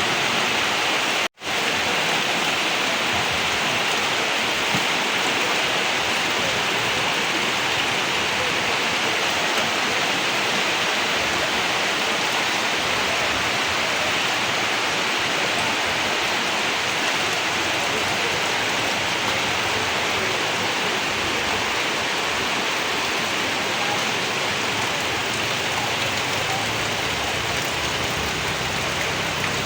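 Heavy rain falling, a steady, even hiss. The sound cuts out completely for a moment about a second in.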